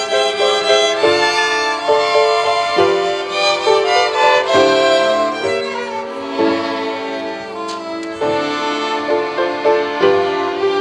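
Children's violin ensemble playing an instrumental interlude, several violins moving through a melody with changing notes, no voice singing.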